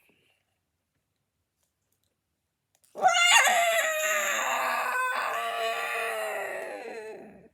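A long, loud, high-pitched dinosaur-style roar that starts abruptly about three seconds in, after dead silence, and slowly tails off near the end.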